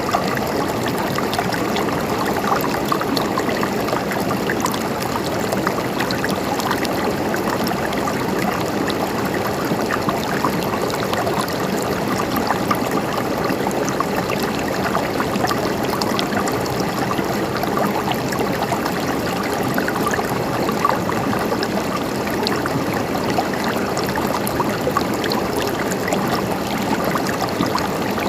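A stream of water flowing steadily, trickling and gurgling.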